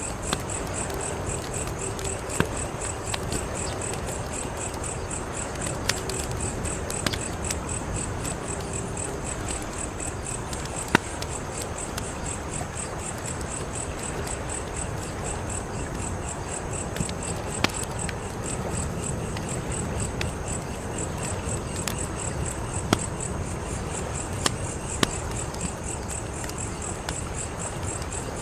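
Wood fire crackling steadily, with scattered sharp pops, the loudest about eleven seconds in. Insects, most likely crickets, chirp in a rapid, even trill behind it.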